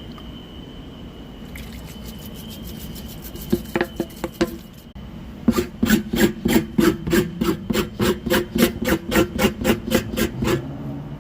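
Tire plug kit's rasp reamer being worked in and out of a puncture to rough up the hole before the plug goes in: quick rasping strokes, lighter at first, then a louder run of about four strokes a second from about halfway.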